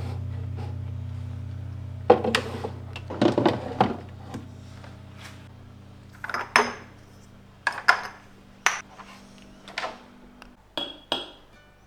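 Glass jars and food containers clinking and knocking as they are picked up and set down, a dozen or so separate sharp clinks spread out.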